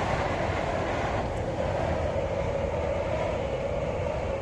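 Strong wind blowing steadily, rumbling on the microphone.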